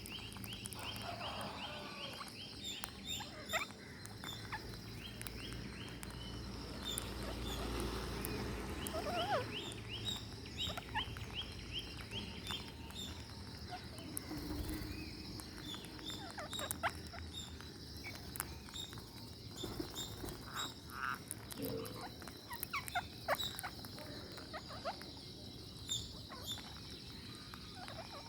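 Ring-necked parakeets feeding: scattered small clicks and crunches of beaks on food, with two runs of quick repeated chirps, one near the start and one about ten seconds in.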